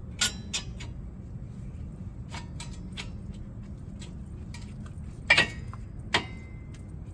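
Metal brake parts clinking and tapping as they are handled and fitted. There are a run of light clicks, with three sharper ringing clinks: just after the start, a little after five seconds and just after six seconds. A low steady hum runs underneath.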